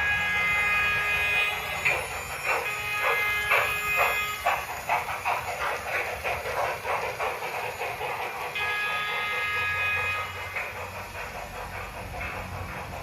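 Steam-locomotive sound effects from a model Big Boy locomotive: a held steam-whistle chord, then a run of exhaust chuffs that speed up. The whistle chord comes back more faintly about two-thirds of the way through.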